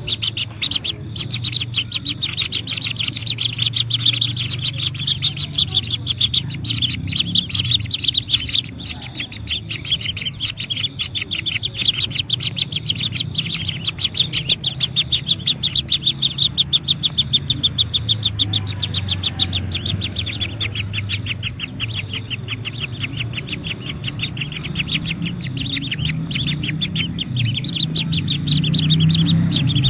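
Birds chirping in a fast, continuous run of short high calls, several a second, over a low steady hum.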